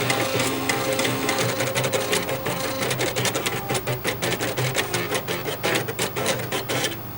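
Floppy disk drives buzzing out a melody: their stepper motors play pitched notes while the heads click rapidly. The tune stops about seven seconds in, leaving a steady hum.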